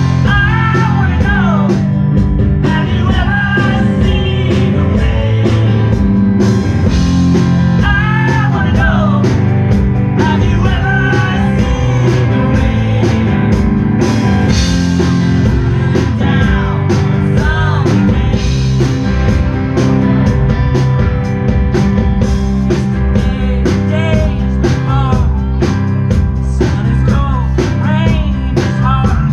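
A rock band playing a cover song with drum kit, bass and guitars over a steady beat, with singing.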